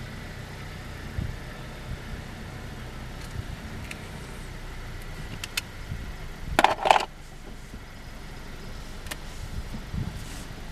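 Car engine running steadily, heard from inside the cabin as a low hum, with a short louder noise a little under seven seconds in.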